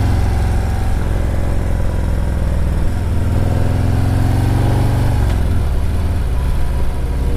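Motorcycle engine running under the rider on a winding mountain road, picked up by a helmet-mounted mic. Its pitch rises as it pulls for a couple of seconds about three seconds in, then drops back about five seconds in as the throttle eases or it changes gear.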